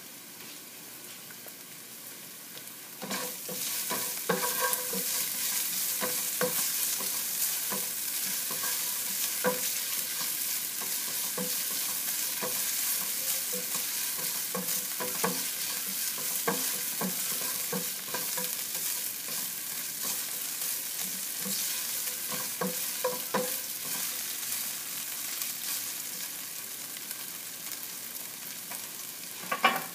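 Julienned ginger frying in oil in a nonstick pan, sizzling steadily as it browns, while a silicone spatula stirs it. The sizzle grows louder about three seconds in, with frequent light knocks and scrapes of the spatula against the pan and a sharper knock just before the end.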